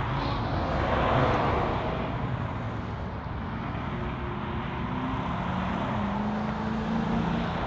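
Muscle car engines and exhausts rumbling as cars drive out, with one passing louder about a second in. A low engine note then rises slightly in pitch near the end.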